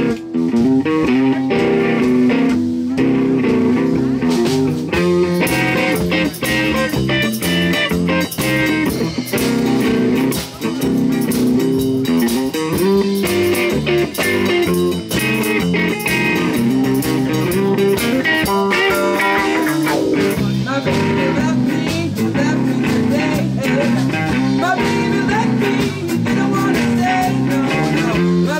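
A live blues band jamming: electric guitar and bass guitar playing a blues groove, with no break.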